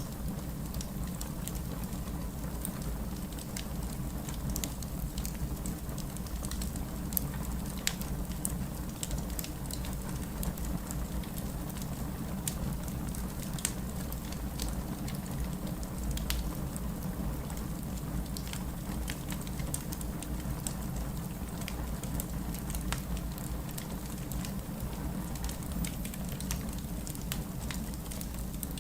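Steady heavy rain with a low rumble, mixed with a crackling wood fire whose sharp little pops and snaps come at irregular intervals throughout.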